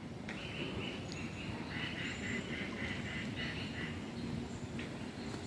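A bird calling in a rapid run of short, evenly repeated notes that stops shortly before the end, over low outdoor background noise.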